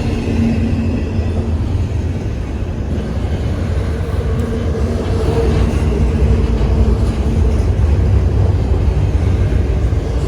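A train rumbling past: a steady, heavy low rumble with a faint humming tone, a little louder in the second half.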